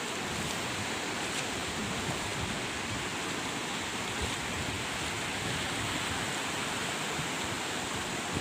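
Steady wash of sea surf, with some wind on the microphone.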